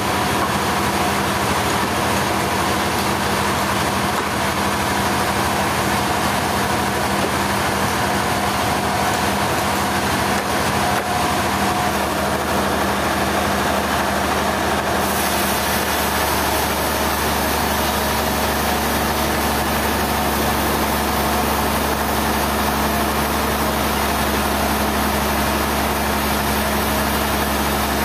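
An engine of heavy machinery running steadily. A deeper hum joins about twelve seconds in.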